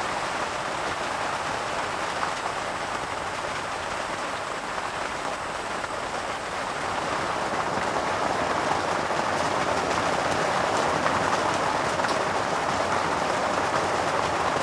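Steady rain falling on long grass, a little louder from about halfway through.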